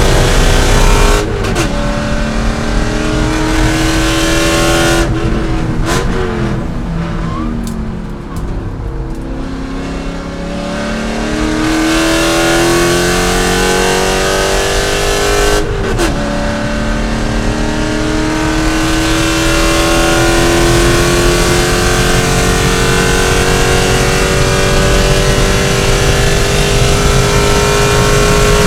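C5 Corvette's 5.7-litre V8 racing under hard acceleration, its pitch climbing through the gears with sudden drops at shifts about a second in and about sixteen seconds in. Around six to eleven seconds in the engine falls off and runs lower and quieter, then it pulls again in a long, steady climb.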